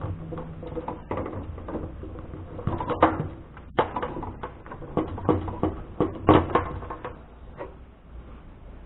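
Irregular clicks and knocks of hard plastic parts being handled as the washing machine's control module is taken out, with the loudest knocks about three and six seconds in.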